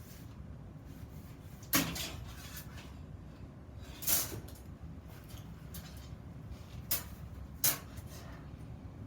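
Four separate knocks of steel pieces being handled and set down, spread over a few seconds, above a low steady hum.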